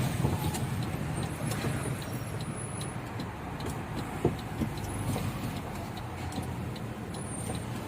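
Isuzu 6HK1 diesel engine of an FTR truck running on used-cooking-oil biodiesel, a steady low drone as the truck is driven along the road. Faint regular ticking about twice a second, with one sharper click about four seconds in.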